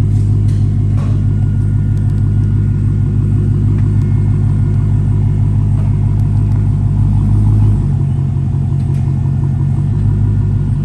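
Dodge Challenger Hellcat Redeye's supercharged 6.2-litre V8 idling with a deep, steady rumble through its exhaust, the resonators deleted. The idle note shifts slightly about eight seconds in.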